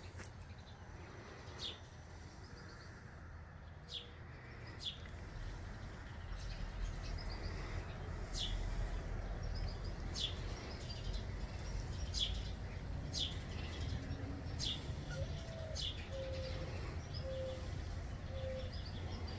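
Small songbirds chirping, short high calls every second or two, over a low outdoor rumble that grows louder after about six seconds. A lower call of four notes comes near the end.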